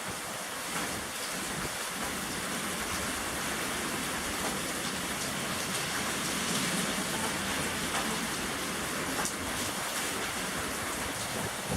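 Steady rain with strong wind: a dense, even hiss that swells slightly in the middle.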